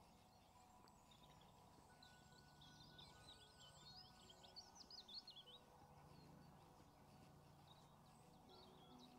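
Near silence with faint birdsong: a run of quick warbling chirps from about two seconds in, and a few more near the end.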